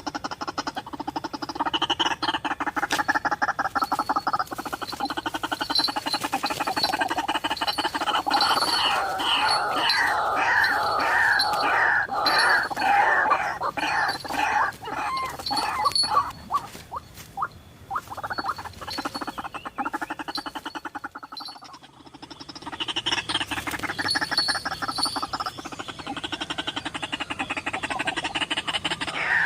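White-breasted waterhen calling: a dense, rapid run of croaking pulses with repeated curving notes. It fades briefly about two-thirds of the way through, then picks up again.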